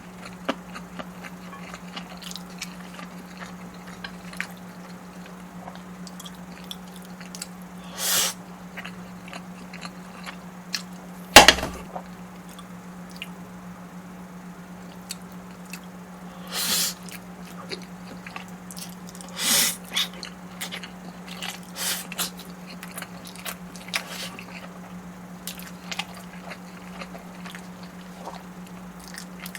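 Close-miked eating: wet, sticky chewing and squishing of food with scattered small clicks and a few short louder bursts of crunching or slurping. There is one sharp knock about 11 seconds in, and a steady low hum throughout.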